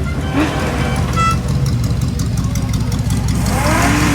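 Car engines rumbling at idle, with a short horn toot about a second in.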